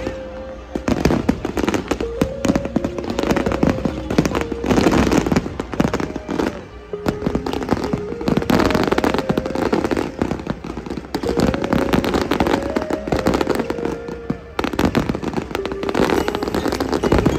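Fireworks going off in a dense, continuous run of bangs and crackles, with music playing alongside.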